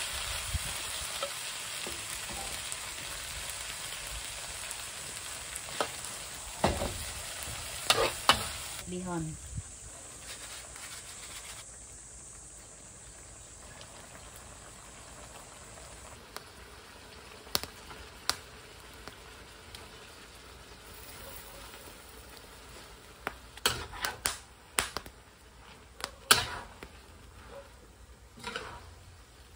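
Vegetables sizzling in a wok over a wood fire, with a metal spatula scraping and knocking against the pan. About nine seconds in, the hiss drops to a quieter simmer as liquid goes into the pan. A run of spatula knocks comes near the end as the noodles are turned.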